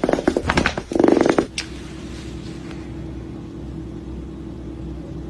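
A high-pitched voice for about a second and a half, then a steady low hum.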